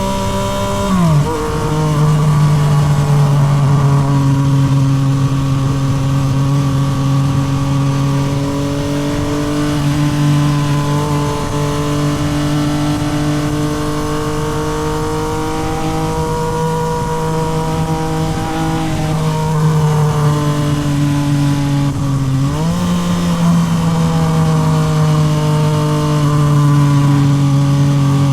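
Yamaha MT-09 SP's 890 cc inline-three with a Toce full exhaust, ridden at steady cruising revs. About a second in the engine note drops sharply. It then holds nearly steady with a slow rise and fall, and about three-quarters of the way through it climbs quickly to a higher steady note.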